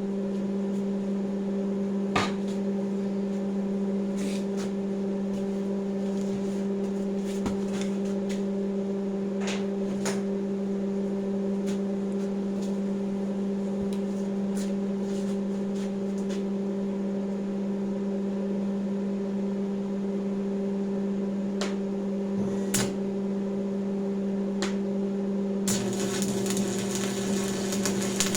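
Electric power tool running with a steady motor hum while cutting sheet metal, with scattered sharp ticks of metal contact. A harsher cutting noise comes near the end.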